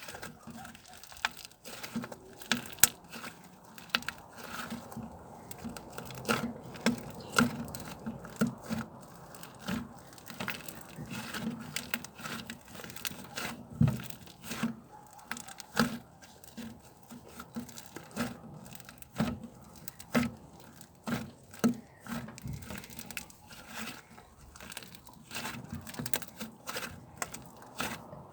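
Irregular crinkling and crackling of something being handled, with many small clicks and sharper snaps scattered throughout, typical of ASMR handling sounds.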